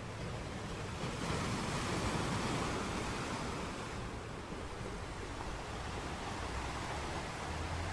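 Sea waves washing onto the shore, one wave swelling about a second in and slowly easing off, with a low rumble of surf underneath.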